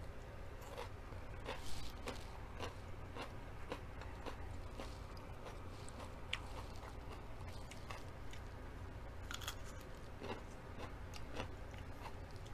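Close-up crunching and chewing of raw mini sweet pepper pieces: irregular crisp crunches with each bite, over a faint steady low hum.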